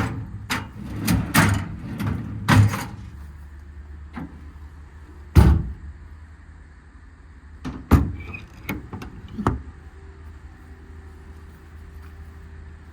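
Metal compartment doors on a truck service body being worked, with a series of clunks and latch clicks; the loudest clunk comes about five seconds in, and three more follow a few seconds later. A steady low hum runs underneath.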